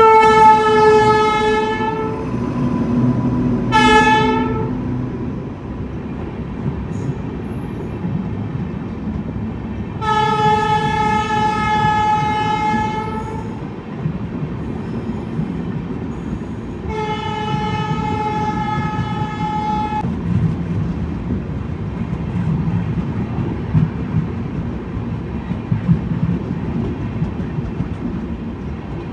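Train locomotive horn sounding four blasts: a two-second blast, a short toot, then two longer blasts of about three seconds each, over the steady rumble and wheel noise of a running passenger train.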